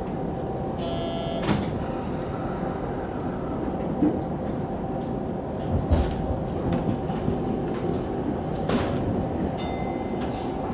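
Sagami Railway 10000 series electric train running, a steady rumble with a steady whine and a few sharp knocks. Two short beeps sound: one about a second in and one near the end.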